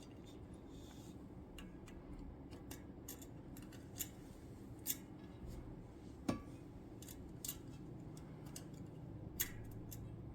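Light clicks and ticks of small metal tools and parts being handled, with about five sharper clicks among fainter ones, over a faint steady hum.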